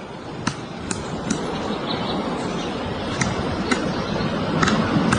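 Woodpecker pecking at wood: about seven single, sharp taps at uneven intervals over a steady background hiss.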